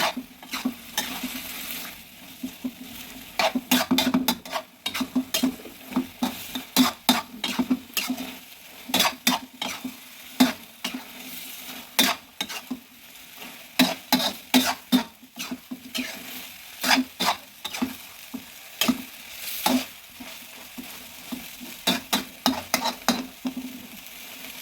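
Mushrooms being stir-fried in a pan: a spatula clacks and scrapes against the pan at an irregular pace, several strokes a second in bursts, over a steady sizzle.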